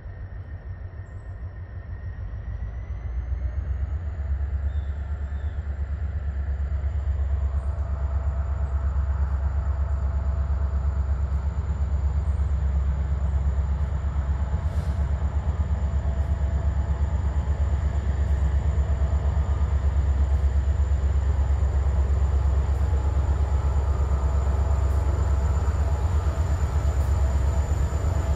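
Short train approaching and passing close by: a deep, low rumble that grows louder over the first several seconds, then holds steady.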